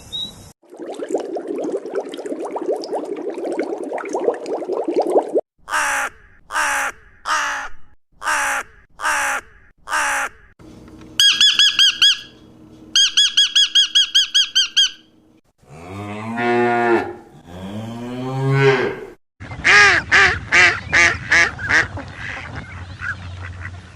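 A run of different animal calls, one after another. First a buzzing noise, then about eight short harsh calls in a row, then rapid high-pitched chattering. Two long cow moos come about two-thirds of the way through, followed by a rapid pulsing call.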